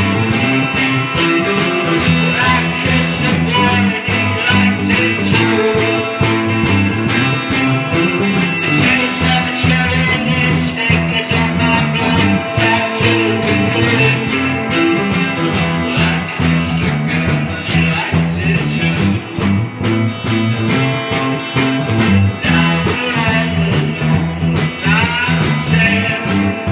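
Rock band playing, led by guitar over a steady beat.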